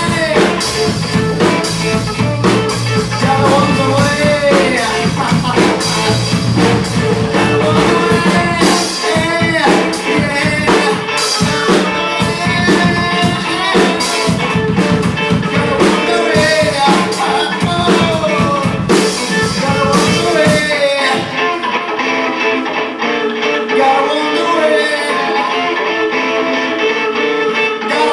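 Live band playing bluesy rock led by electric guitar, with bent notes over bass and drums. About 21 seconds in, the bass and drums drop out and the guitar carries on nearly alone.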